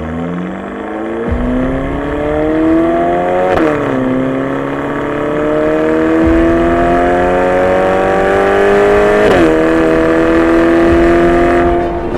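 Ferrari Portofino's twin-turbo 3.9-litre V8 accelerating, its pitch climbing and dropping sharply at two upshifts, about a third of the way in and again near three-quarters, then running steadily near the end.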